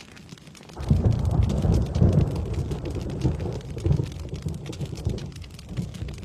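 Thunder over steady rain: a sudden low rumble breaks in about a second in, rolls in several swells and dies away about five seconds later, while the rain patters on throughout.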